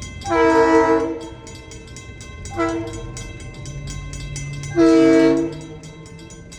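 Locomotive air horn sounding three chords: a long blast, a short one and another long one, the closing part of the horn signal for a road crossing.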